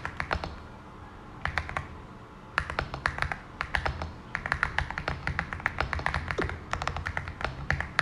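Typing on a Cidoo V65 mechanical keyboard with Glorious Panda 67g tactile switches, dampened with case, plate and IXPE foam, polyfill and tape mods. A few keystrokes open it, then after a pause a short burst, then steady typing from about two and a half seconds in.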